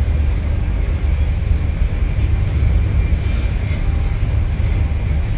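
Steady low rumble of a passenger train carriage running at speed, heard from inside the coach, with a faint high whine above it.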